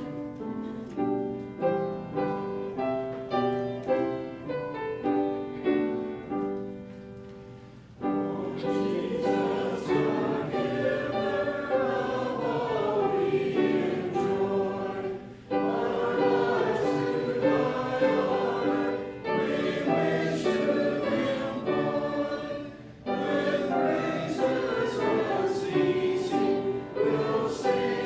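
Piano playing a hymn introduction. About eight seconds in, the congregation starts singing the hymn with the piano, pausing briefly between lines.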